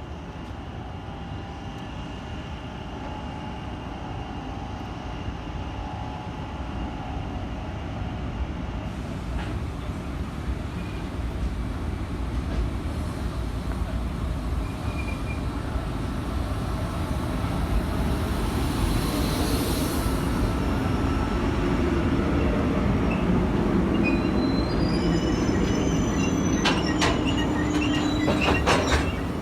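Passenger train pulling into a station, its rumble growing steadily louder as it nears. High wheel squeals come in toward the end, followed by a quick run of clicks and knocks.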